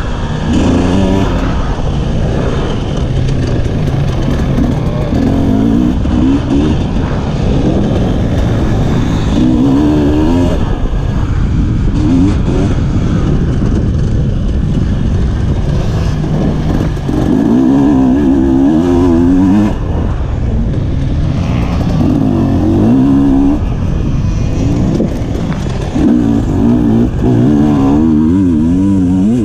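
Two-stroke enduro motorcycle engine heard on board, repeatedly revving hard and dropping back as the bike accelerates along the dirt track and slows for the turns, over a constant rough rumble.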